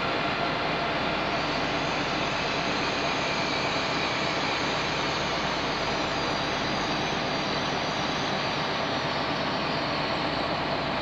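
Passenger train running past at low speed, giving a steady even rumble with a faint steady hum in it.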